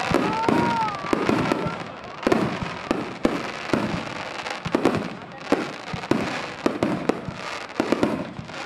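A star mine fireworks barrage: shells launching and bursting in rapid succession, many sharp reports a second, with a brief whistle in the first second or so.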